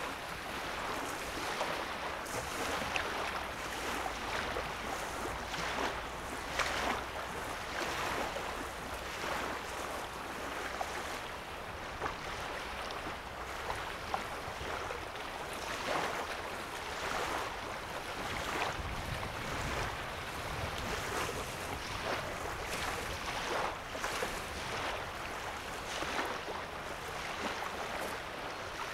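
Small lake waves lapping at the shoreline: a steady wash broken by soft, irregular splashes every second or two.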